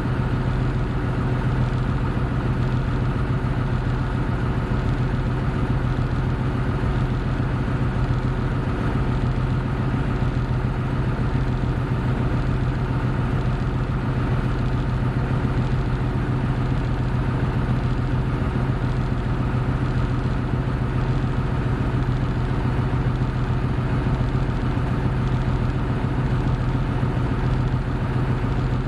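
Hino Blue Ribbon City hybrid bus (BJG-HU8JLFP) diesel engine running with a steady drone at an unchanging pitch.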